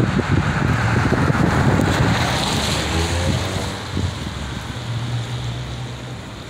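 Wind buffeting the microphone in a snowstorm: a gusty rushing noise with a low rumble, easing off somewhat in the second half.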